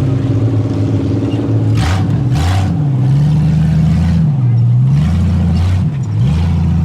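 Truck engine revving hard and easing off several times, its pitch rising and falling, with two short rushes of noise about two seconds in.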